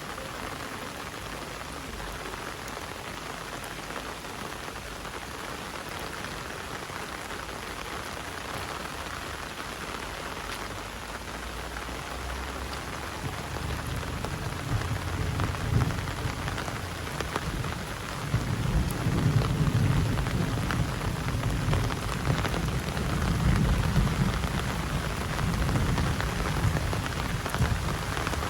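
Heavy rain falling steadily. About halfway through, a deep rumble of thunder builds and rolls on, louder in the last third.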